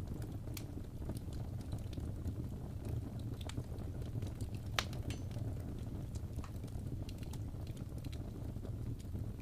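Wood fire crackling in a fireplace: irregular sharp pops and snaps, one louder snap about halfway through, over a steady low rumble.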